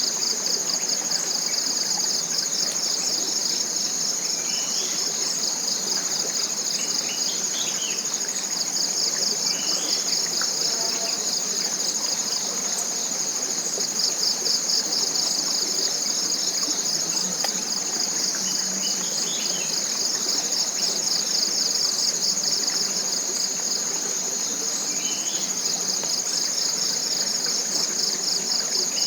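Dense chorus of tropical forest insects: a steady, high-pitched buzzing with a fast, even pulse. A few short rising chirps break through it now and then.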